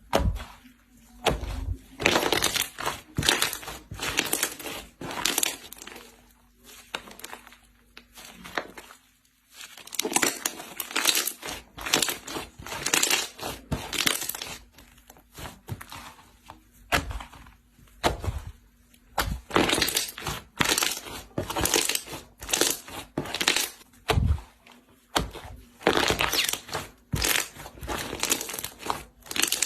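Hands squeezing and pressing slime, making a long series of short noisy squelching bursts about one or two a second, with a brief lull about nine seconds in.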